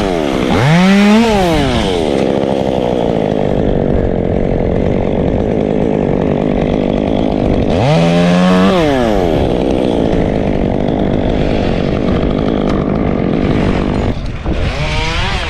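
Two-stroke chainsaw running hard: it revs up and back down about a second in, runs steadily at a lower pitch, revs up and down again about eight seconds in, then drops off near the end.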